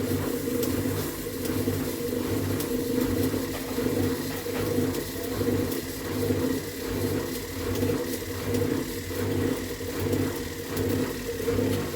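Gorenje washing machine running with a steady mechanical hum that pulses evenly, about one and a half times a second, as the drum turns; the owner presents this noise as a fault.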